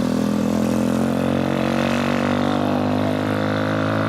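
Old motorcycle engine running at a steady, even speed, a continuous drone with only a slight waver in pitch.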